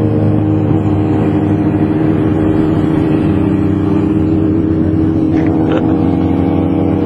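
Motorcycle engine buzzing steadily at a constant cruising speed, heard from on the bike, with the rush of the ride beneath it.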